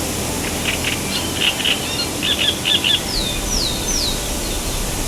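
Wild birds calling: a run of short high chirps, then three quick down-slurred whistles, over a steady hiss of forest ambience.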